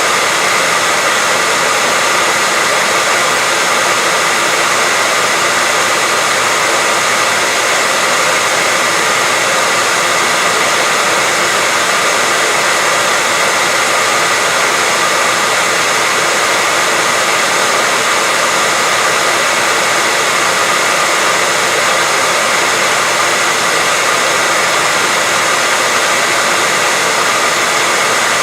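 Continuous white noise: a loud, even hiss that never changes, with a faint steady whine running through it.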